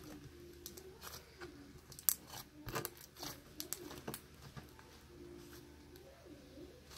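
Sticky clear-glue slime being squished and pulled by hand: irregular small clicks and pops, fairly faint.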